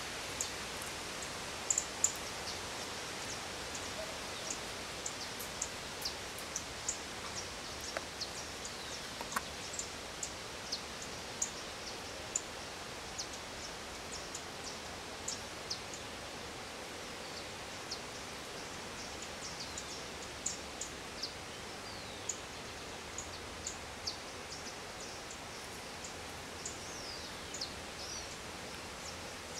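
Small birds calling with short, high chirps and ticks scattered throughout, over a steady hiss of outdoor background noise.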